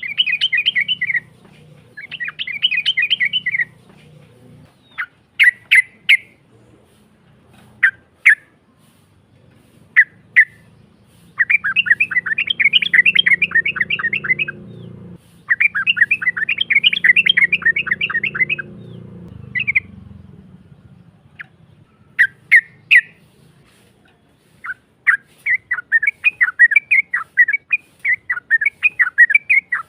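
Yellow-vented bulbul (trucuk) singing with a rough voice: rapid chattering phrases of two to three seconds each, broken up by short single notes.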